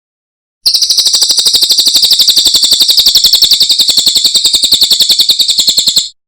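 Cililin songbird giving one long, rapid trill of sharp, evenly repeated high notes, about fourteen a second, starting just under a second in and lasting about five seconds before stopping abruptly.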